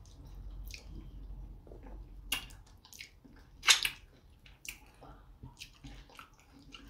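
Close-miked wet eating sounds: chewing and lip smacks, with slimy ogbono soup squishing between fingers and mouth. They come as scattered sharp wet clicks, the loudest a little past halfway.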